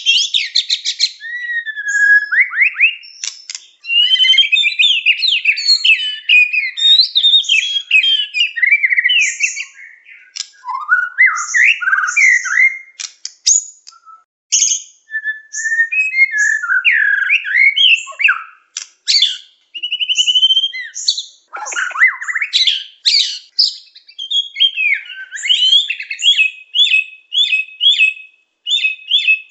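A murai songbird singing continuously in loud, varied phrases of whistles, slurred glides and chattering notes, with brief pauses. Near the end it repeats one short note several times in quick succession. This is a lure song of the kind played to attract murai for trapping.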